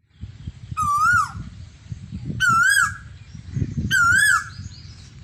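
A loud bird call, three times about a second and a half apart, each a short wavering note rich in overtones, over a low rumbling noise.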